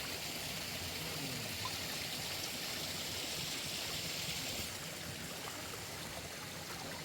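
Mountain stream running steadily, an even rushing of water that eases slightly about five seconds in.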